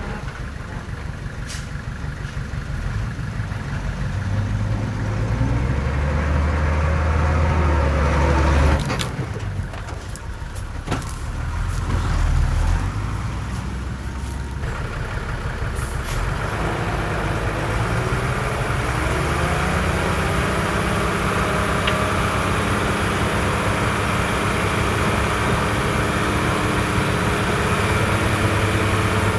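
Heavy diesel earthmoving machinery running, dump truck and bulldozer engines. The engine note is louder for a few seconds, drops off abruptly, swells briefly, then settles into a steady drone.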